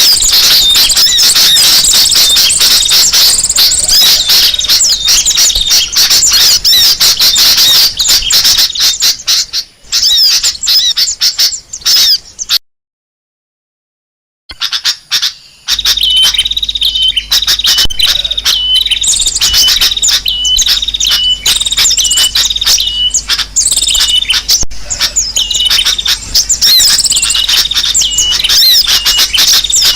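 Bird-lure recording of many small birds calling and chattering at once, loud and dense. It breaks off into brief silence a little before halfway, then resumes with a different mix in which one high call repeats at even spacing over a faint low hum.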